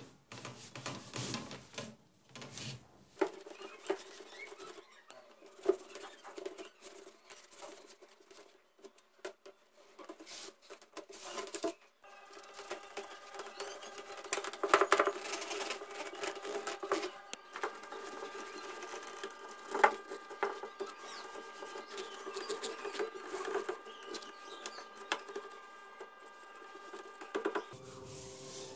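Scattered taps and scrapes, then from about twelve seconds in a small motor running steadily, with occasional sharp knocks over it.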